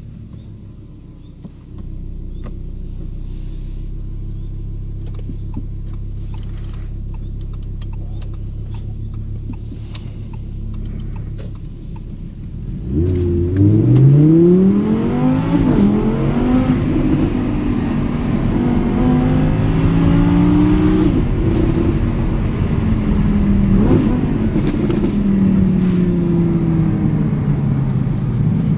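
Audi R8 V10 Plus's naturally aspirated 5.2-litre V10 running at low revs with a steady low hum. About 13 seconds in it accelerates hard, its pitch climbing steeply and the sound getting much louder, then it runs on at higher revs with the pitch wavering and slowly falling.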